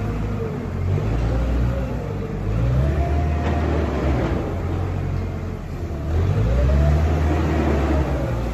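A vehicle engine revving up and easing off in slow swells, its pitch rising and falling over a few seconds at a time.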